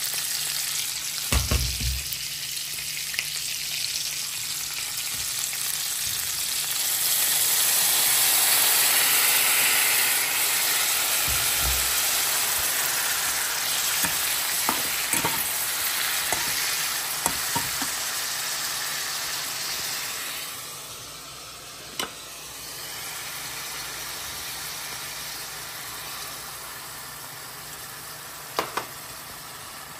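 Onion rings sizzling in soy sauce in a hot nonstick frying pan. The sizzle swells loudest in the first third and eases off after about twenty seconds, with scattered clicks and scrapes of a metal slotted spatula stirring against the pan.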